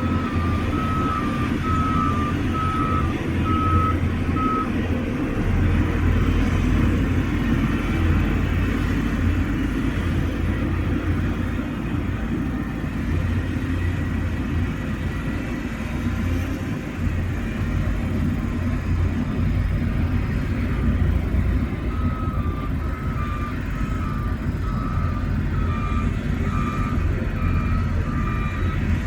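Heavy diesel earthmoving machinery running steadily with a low engine rumble, while a reversing alarm beeps about twice a second for the first few seconds and again near the end.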